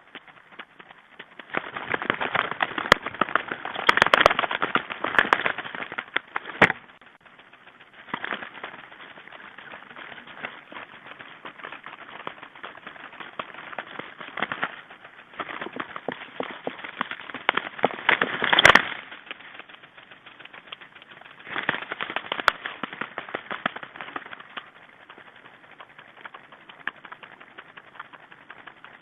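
Small birds pecking and scrabbling at seed on a winter bird feeder: dense runs of rapid tapping and clicking that come and go, with a few sharper single knocks.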